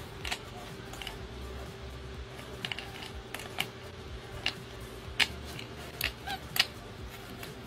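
An animal chewing a crunchy pork rind: irregular crisp crunches and clicks, a few louder ones in the middle, over a faint steady hum.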